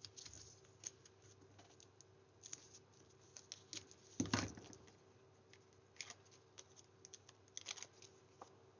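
Paper and card being handled on a craft table: light rustles and small taps, with a louder knock a little over four seconds in as a piece is set or pressed down.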